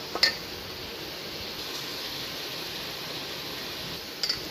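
Chicken pakoras frying in hot oil, a steady sizzling hiss, with a few light clinks about a quarter second in and again near the end.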